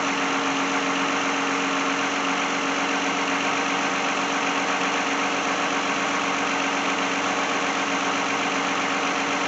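2010 Lexus engine idling steadily after a jump start, a constant hum with no change in speed.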